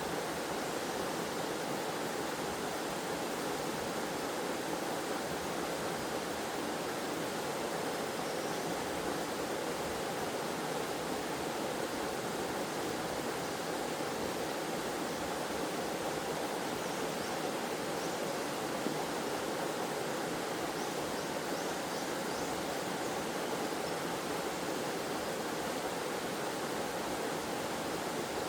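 Forest waterfall and stream: water pouring and flowing in a steady, even rush.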